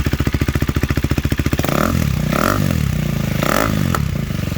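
373 cc single-cylinder motorcycle engine, warmed up, idling with a fast even beat through a stubby slip-on exhaust tip with its small silencer insert fitted, then blipped twice, about two and three and a half seconds in. A short pop comes from the exhaust as it drops back to idle near the end.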